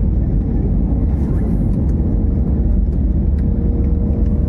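Airliner cabin noise in flight: a steady, loud low rumble of the jet engines and airflow, with a faint steady hum above it.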